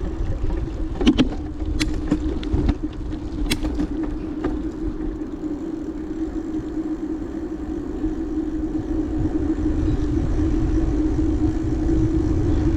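Bicycle ride heard from a mounted action camera: low wind rumble and a steady hum, with a few sharp clicks and rattles in the first few seconds.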